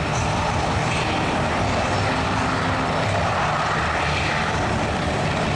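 Coast Guard HH-60 Jayhawk helicopter hovering low, with a steady, loud drone of rotor and turbine engines and no breaks.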